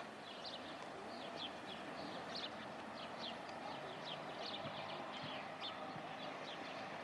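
Small birds chirping over and over in short, quick, downward-sliding notes, over a steady background hiss.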